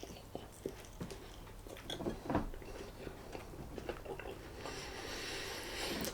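A person biting into and chewing a soft tortilla chicken wrap: scattered small wet clicks and mouth noises, with a steady hiss joining in for the last second or so.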